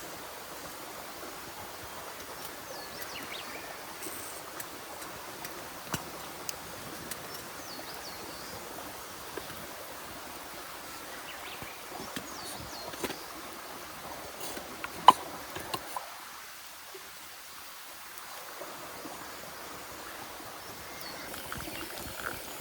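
Steady rushing of a clear forest stream. Occasional light clicks and knocks sound over it, the sharpest about fifteen seconds in. The rushing thins for a few seconds after that.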